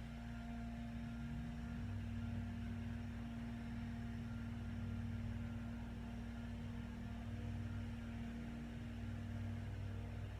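Steady low hum over a faint hiss: room tone in a silent pause.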